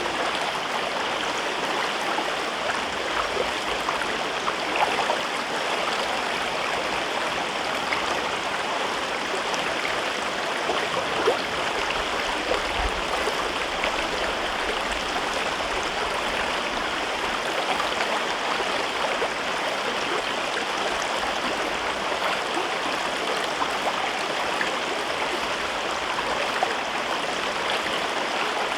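River water flowing steadily over rocks in a gorge, an even rushing and babbling with small splashes.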